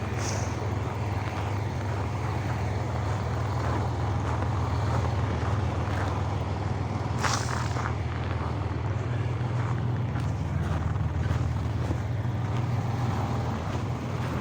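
A heavy vehicle's engine running with a steady low drone, with a short hiss about seven seconds in.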